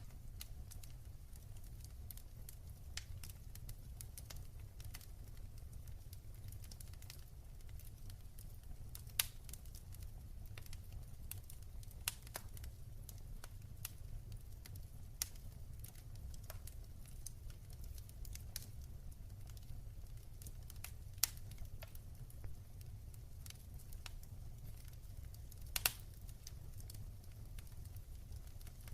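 Wood fire in a fireplace crackling: a steady scatter of small snaps, with a few louder pops, over a low steady rumble.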